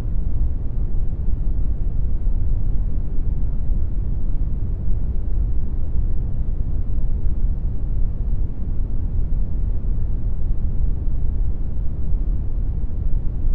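Steady brown noise: a deep, even rushing hiss strongest in the low end, computer-generated in Audacity.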